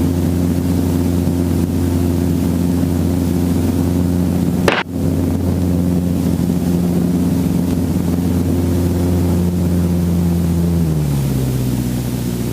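Helicopter engine and rotor running steadily in a low hover, with a brief knock about five seconds in. Near the end the pitch steps down and it gets a little quieter as power comes off.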